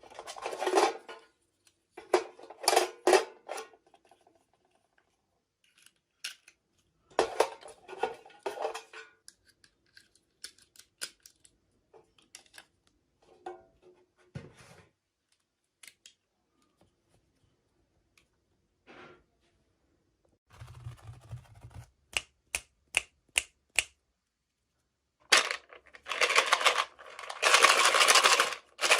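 Handling sounds of toy doll packaging being unboxed: short bursts of crinkling and rustling with scattered clicks and taps, separated by silent gaps, and a longer stretch of rustling near the end.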